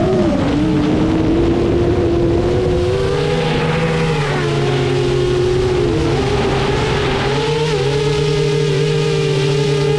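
Motors and 7-inch propellers of an FPV quadcopter whining in flight, several pitches gliding up and down independently with throttle, over a steady rush of air.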